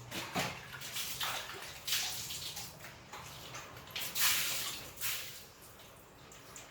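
A pressure spray jet hissing in about five short bursts, the longest and loudest lasting about half a second roughly four seconds in.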